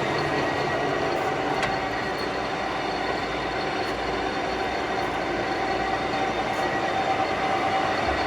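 Summit engine lathe running steadily under its 10 hp main motor, with its geared headstock giving a constant whine over mechanical noise and a few faint clicks.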